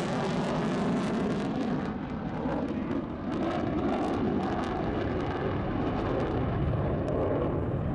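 A B-1B Lancer's four General Electric turbofan engines running at high throttle as the bomber flies past, a loud, dense and steady jet noise.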